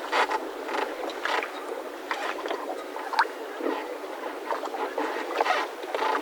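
Mooring ropes on moored yachts creaking and squeaking irregularly as the boats shift against them, with a thin rising squeal about three seconds in.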